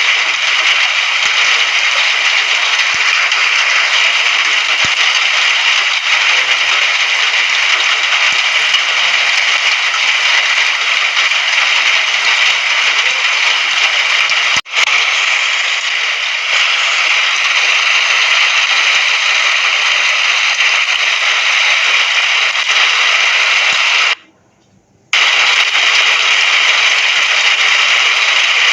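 Steady hiss of rain. There is a single click about halfway through, and the sound drops out for about a second near the end.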